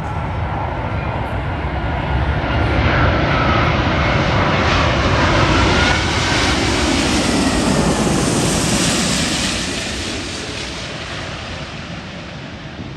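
Four-engine Airbus A380 jet airliner flying past, its engine roar building to a peak about six to nine seconds in and then fading away. Thin whining tones slide in pitch over the roar in the first few seconds.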